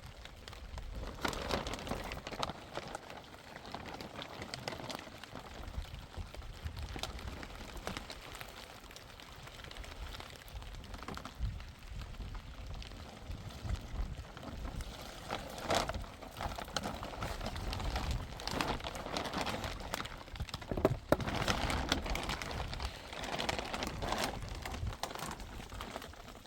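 Water pattering and dripping off a rain-soaked tent, uneven, with many small knocks and one sharp click about twenty seconds in.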